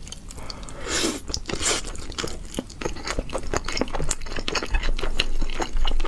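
A person chewing a mouthful of boneless cola chicken wing pieces: a quick, busy run of mouth clicks and crunches that picks up about a second in.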